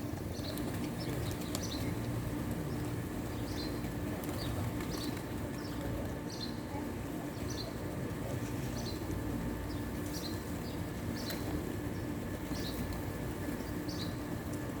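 Pigeons feeding, with wing flaps and cooing. A short high call or click repeats about every second over a steady low hum.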